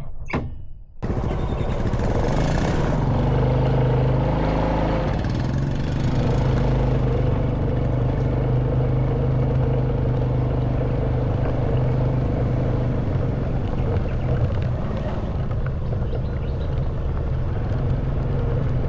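Honda Wave 110cc single-cylinder motorbike engine running under way, with wind and road noise. The sound cuts out briefly near the start. The engine then picks up speed over a few seconds and settles at a steady pitch.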